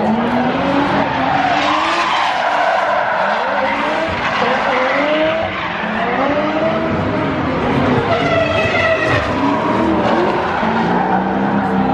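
Drift cars on a circuit, engines revving up and down through the slides, with tyres squealing and skidding.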